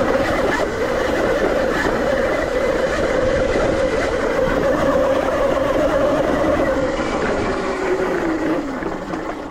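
ETM RTR electric dirt bike under way on a dirt trail: a steady motor whine over rough tyre and wind noise, the whine falling in pitch near the end as the bike slows.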